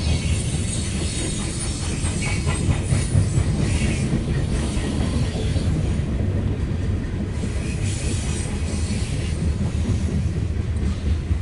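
A loaded coal train rolling past with a steady low rumble of wheels on rail, and repeated clacking as the wheels cross rail joints.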